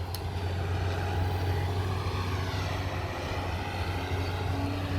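Heavy demolition machinery running: a steady low diesel engine drone with a faint hiss over it.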